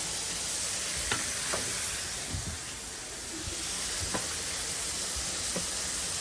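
Food sizzling steadily on a hot cooking surface, with a few sharp clicks and knocks of kitchen utensils in between.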